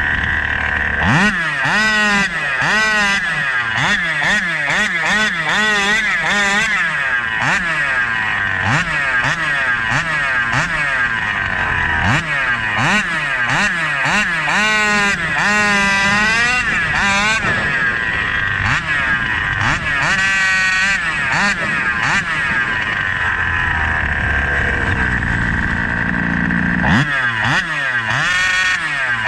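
SCZ E290 29cc reed-valve two-stroke engine revving: the throttle is blipped up and down several times a second for a while, then opened in longer sweeps that climb high and drop back. A steady high-pitched tone runs underneath.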